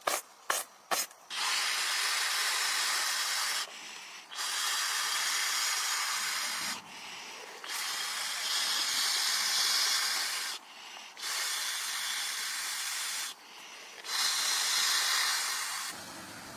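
A few sharp clicks, then five long, steady hisses of about two to three seconds each, with short pauses between them.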